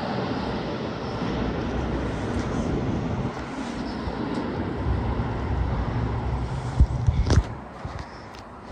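Toei 10-300 series electric train heard from inside the car, a steady running rumble. A few sharp knocks come near the end, after which the sound drops noticeably quieter.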